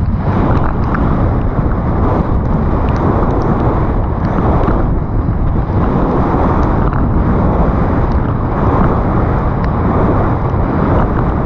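Wind rushing over the camera microphone of a mountain bike on a fast descent, with steady tyre and trail noise. Scattered small clicks and rattles come from the bike.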